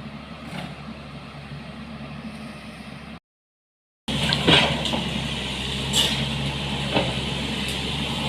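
A vehicle engine running steadily. About three seconds in, the sound drops out completely for nearly a second, then comes back louder with rattling and knocks over the engine.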